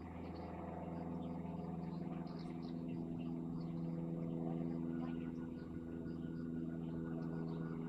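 Renfe Class 463 Civia electric multiple unit running, a steady electric hum made of several layered pitches that grows slightly louder over the first few seconds.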